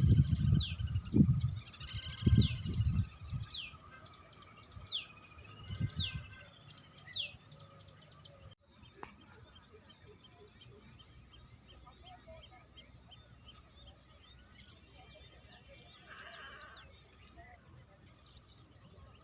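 Wild birds calling: first a series of clear, high whistles, each falling sharply in pitch, about one a second, with low rumbling bumps of wind or handling noise at the start. After a sudden break about eight seconds in, a different steady series of short high notes repeats just under twice a second.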